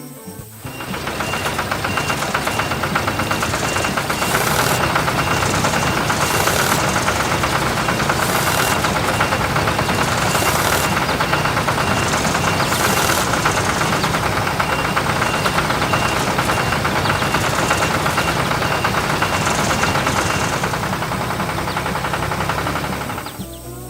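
A motor running steadily with a rapid knocking pulse, and short hissing puffs about every two seconds for a stretch in the middle.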